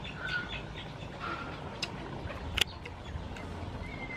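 Short bird chirps over a quiet garden background, with a few light clicks and one sharp click about two and a half seconds in.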